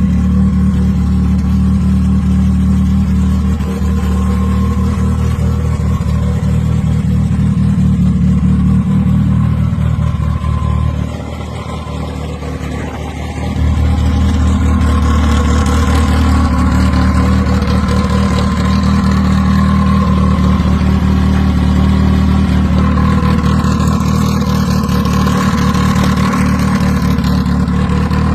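Car engine running at a steady speed, with a deep, loud exhaust note. About eleven seconds in it drops in level for a couple of seconds, then comes back.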